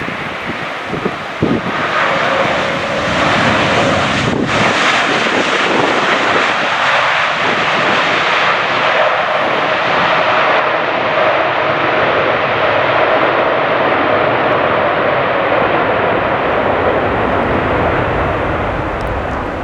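Airliner's engines running as it comes in to land in a strong crosswind, a steady roar that grows louder about two seconds in and holds, with a faint tone that drifts in pitch. Gusty wind buffets the microphone throughout.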